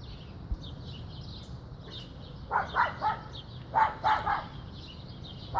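A pet dog barking: two quick runs of three short barks, about a second apart.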